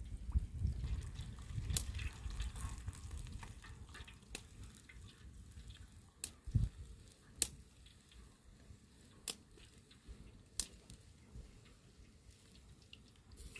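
Water dripping: scattered single drops at irregular intervals, with a low rumble fading away over the first few seconds.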